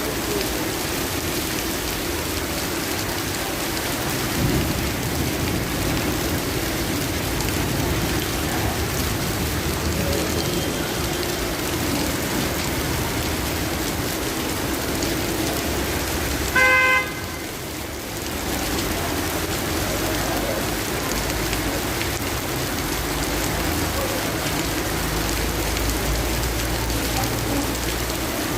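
Heavy rain falling steadily and hissing on the street. About halfway through, a car horn gives one short honk.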